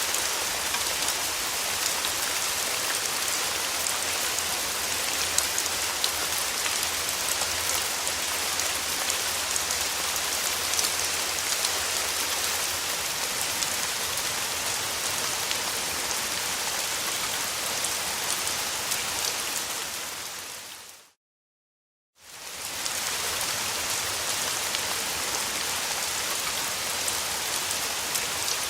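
Steady rain falling on a surface, a dense hiss with many individual drops ticking. About twenty seconds in it fades out to a second of silence, then fades back in.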